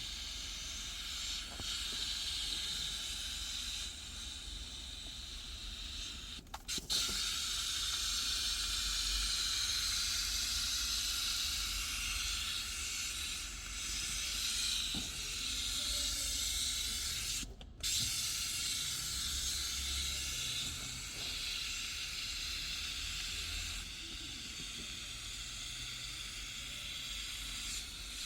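Steady hiss of a pressurised jet from a hand-held cleaning tool, cut off briefly twice as the trigger is let go.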